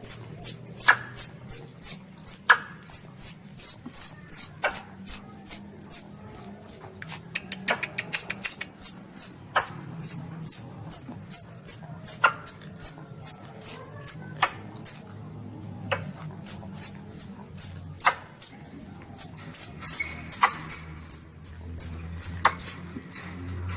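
Baby Asian palm civet calls used as a hunting lure: a long run of short, high-pitched squeaks, each falling in pitch, about three a second, over a faint low hum.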